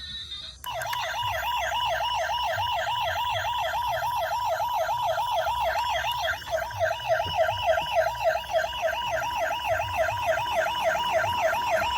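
Electronic siren of a toy emergency vehicle, a fast warble sweeping up and down about four times a second, switching on abruptly about half a second in.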